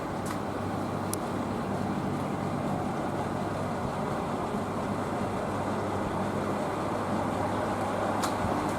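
Diesel railcar running on the line, heard from inside: a steady engine hum over rolling wheel noise, gradually getting louder, with a few faint clicks.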